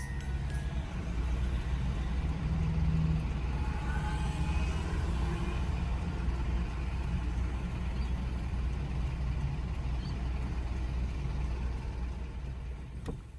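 Car interior noise while driving: a steady low road rumble with tyre hiss, easing off at the very end.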